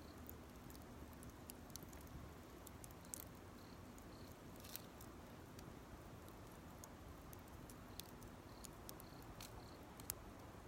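A small campfire burning quietly, with sparse, irregular crackles and snaps from the burning wood. Short series of faint high peeps come near the start and again near the end.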